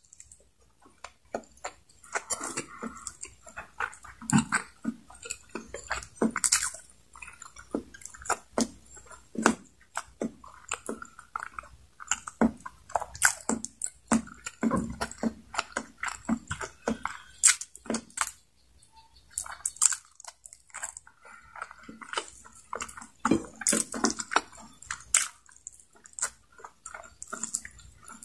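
Close-miked chewing and biting of adobo-braised chicken neck and rice eaten by hand: irregular sharp mouth clicks, with a short lull about two-thirds of the way through.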